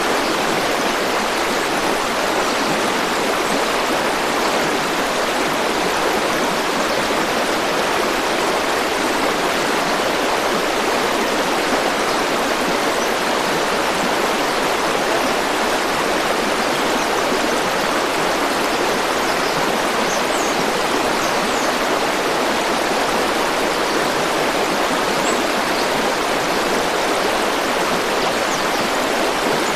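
Flowing river water rushing steadily, with a few faint high chirps in the second half.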